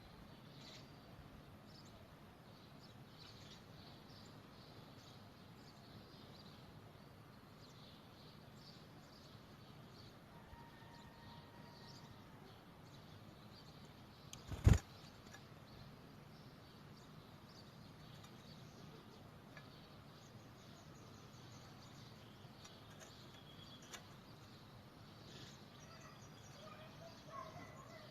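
Faint, scattered chirps of small birds over a low background hiss, with one sharp knock about halfway through.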